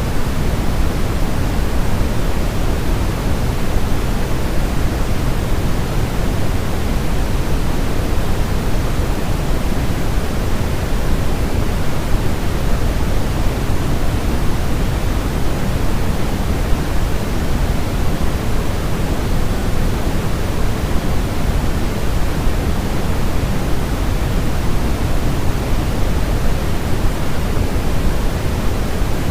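Steady, unchanging white noise from a baby sleep-sound track, with most of its weight at the low end, so it sounds more like a deep rush than a thin hiss.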